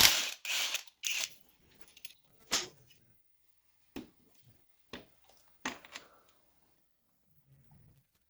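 Scattered sharp knocks and clinks of hand tools and metal engine parts being handled during engine disassembly: a loud knock at the very start, then about six more spaced over the next six seconds with quiet gaps between.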